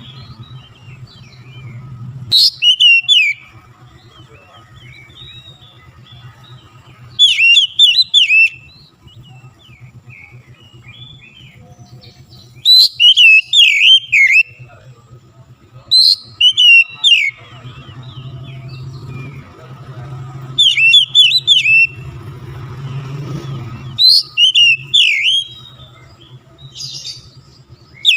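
Oriental magpie-robin (kacer) singing in loud rapid bursts about every four to five seconds, each a second or two of quick, high, sweeping notes. Between the bursts there are softer chirps over a steady low hum.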